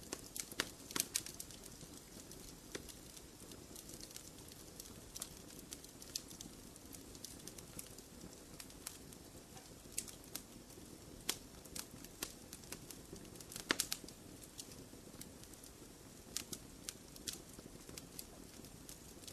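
Fireplace fire crackling: irregular sharp pops and snaps over a soft steady hiss of flames, with the loudest pops about a second in and about two-thirds of the way through.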